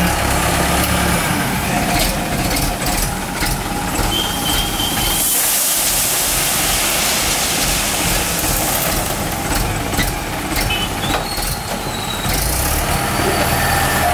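Mahindra 575 DI tractor's four-cylinder diesel engine running under load while its front-end loader works, with several knocks and clanks. A hiss comes about five seconds in.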